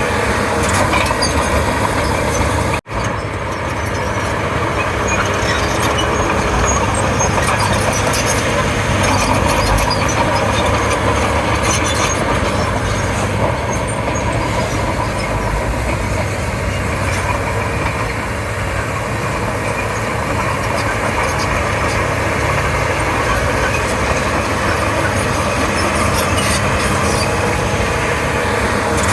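Komatsu D31P crawler bulldozer's diesel engine running steadily while the machine works, with the sound dropping out for an instant about three seconds in.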